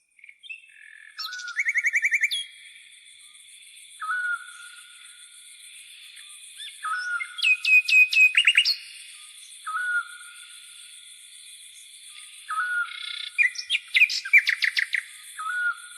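Songbirds singing: a short call repeated about every three seconds and bursts of rapid trilled notes. Under them runs a continuous high-pitched insect buzz.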